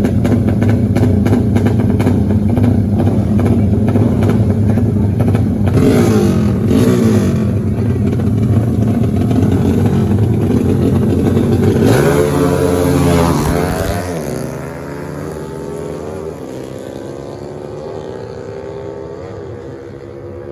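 Trail motorcycles' engines running and revving hard, one rising and falling in pitch as it passes close about twelve to fourteen seconds in; after that a quieter engine note climbs steadily as it accelerates.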